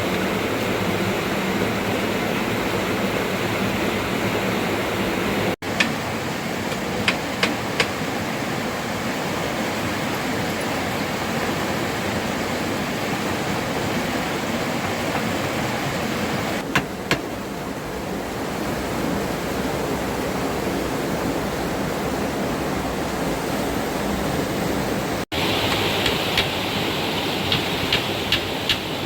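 Steady rushing noise of heavy rain and running water, breaking off for an instant twice. A few sharp knocks sound over it, with a run of knocks at about two a second near the end.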